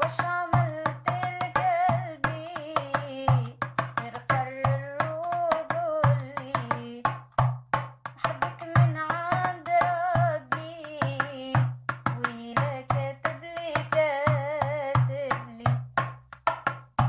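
A woman singing with held, wavering notes over a steady drum beat.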